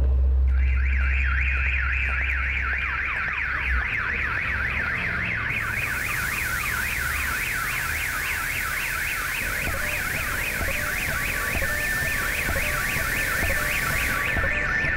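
Car alarm siren warbling rapidly up and down, several sweeps a second, starting about half a second in and running on without a break. A low rumble underneath stops a few seconds in, and a steady high hiss comes in about a third of the way through and drops out near the end.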